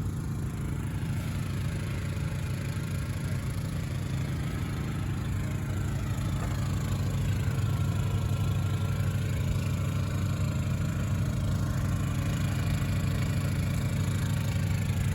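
An engine running steadily at idle, a low, even hum that grows slightly louder about halfway through.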